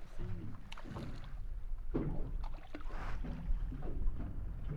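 Small fishing boat afloat in wind and chop: a steady low rumble of wind and water around the hull, with a few faint knocks of gear or of fish on the deck.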